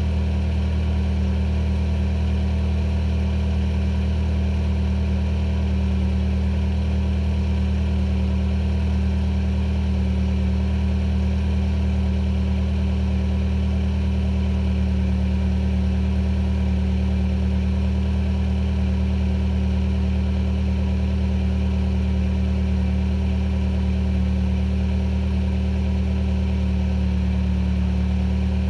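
A 2014 Hyundai Sonata's 2.4-litre four-cylinder engine idling steadily, heard at the tailpipe, still warming up after a cold start.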